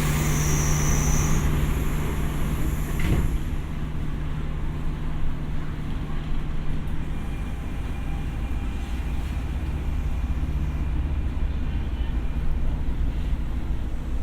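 Inside a Tokyo Metro 6000 series electric train car: a steady low hum and rumble, with a brief click about three seconds in.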